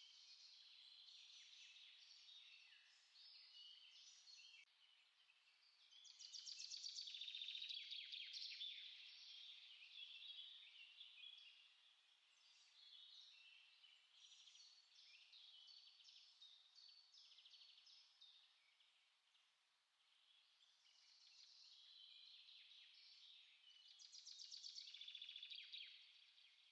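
Several small songbirds singing together in overlapping high chirps and twittering phrases, with louder rapid trills about a quarter of the way in and again near the end.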